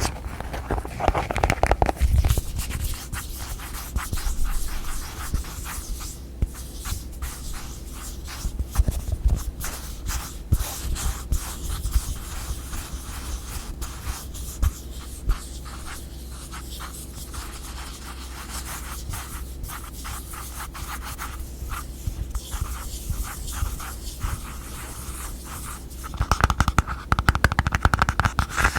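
Close-miked ASMR tapping and scratching on containers and their lids: quick, irregular clicks and scrapes, busier and louder at the start and again near the end.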